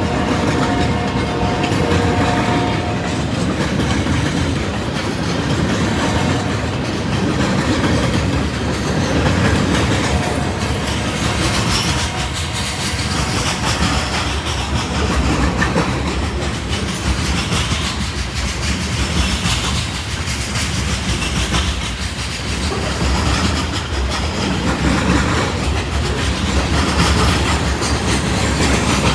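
A Union Pacific train running past close by: a steady rumble of railcars with the clatter of wheels over the rails.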